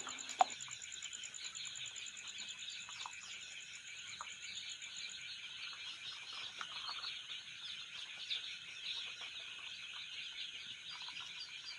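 Many baby chicks in a brooder peeping together: a dense, continuous chorus of high chirps, with an occasional louder single peep standing out.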